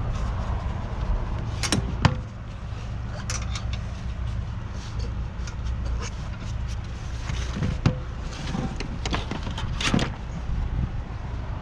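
A vehicle engine idling steadily, with scattered sharp knocks and clanks of tools on metal, the loudest about two seconds in, near eight seconds and near ten seconds: work on a truck's driveline to free it for towing.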